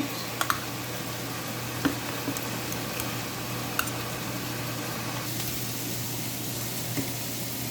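Pot of chicken kurma curry with coconut milk simmering on the stove: a steady hiss over a low steady hum, with a few faint ticks.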